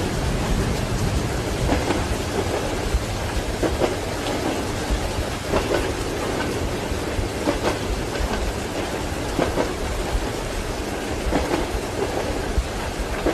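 Rain falling steadily over the rumble of a moving train, with the clack of its wheels over rail joints about every two seconds.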